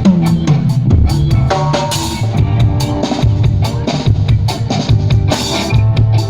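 A live band playing an instrumental jam, led by a drum kit with steady kick and snare strikes over a low, moving bass line, with other pitched instruments above.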